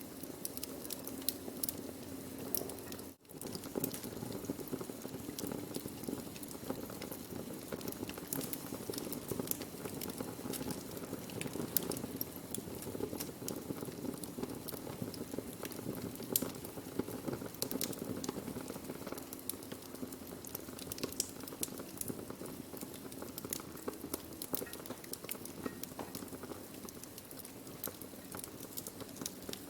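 Wood fire burning: a steady low rushing with frequent sharp crackles and pops, briefly cutting out about three seconds in.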